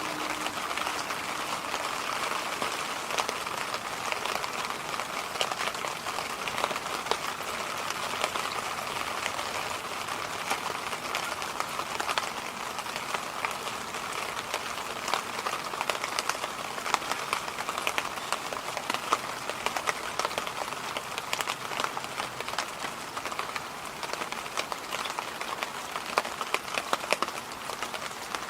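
Electric fan running steadily: an even rushing hiss with a band of mid-pitched whoosh and fine, irregular crackles throughout.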